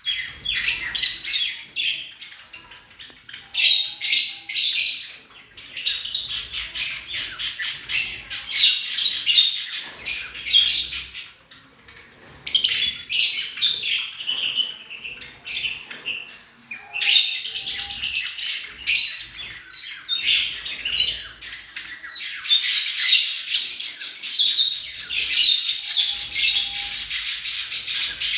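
Lovebirds chattering: rapid, high-pitched chirps and squawks in bouts of a few seconds, broken by short pauses.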